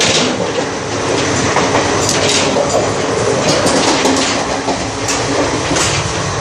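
Moving passenger train heard from inside the coach: a loud, steady rumble and rattle, broken by a few irregular clacks.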